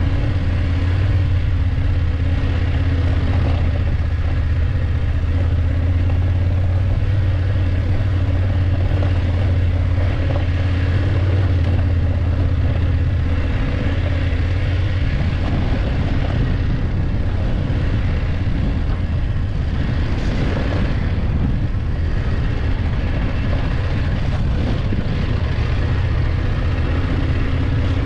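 BMW F850GS motorcycle's parallel-twin engine running steadily under way.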